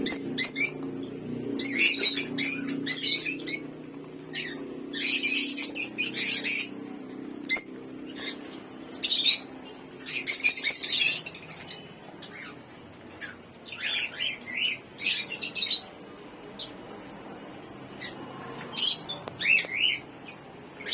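Small pet parrots, cockatiels and African lovebirds, chirping and squawking in short, scattered high-pitched bursts. A low steady hum fades away over the first few seconds.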